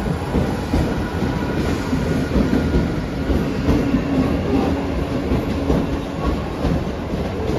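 Mumbai suburban local electric train (EMU) running past on the track, a loud steady rumble of wheels and carriages, with a faint low hum through the middle of it.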